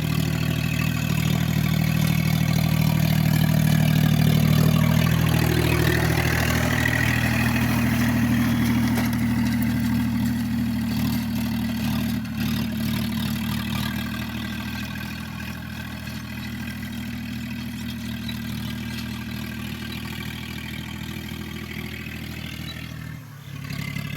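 Tractor engine running steadily while towing a gang mower, its low hum even throughout; it grows somewhat quieter from about halfway and dips sharply just before the end.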